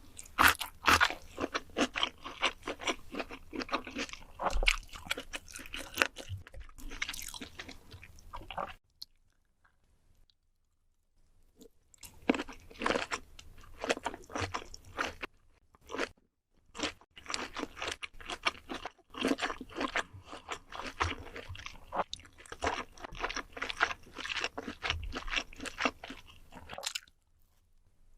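Close-miked mukbang eating: a person biting and chewing food with crunchy, wet mouth sounds, in two long stretches broken by a pause of about three seconds.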